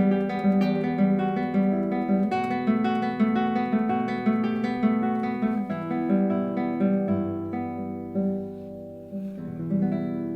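Solo classical guitar playing a steady run of plucked arpeggiated notes that grow gradually quieter, then a final chord struck about nine and a half seconds in that rings on and fades.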